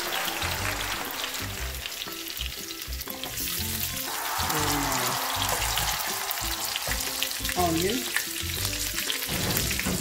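Garlic and onion frying in hot rendered pork-belly fat in a wok, sizzling steadily while a wooden spatula stirs them. The sizzle grows louder about four seconds in as the onion goes into the pan.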